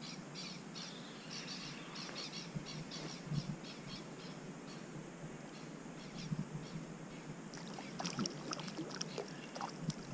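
A small bird chirping in a quick run of short, high notes, about four a second, that fades out about halfway through, over a steady outdoor hiss. Near the end comes a scatter of sharp clicks and taps.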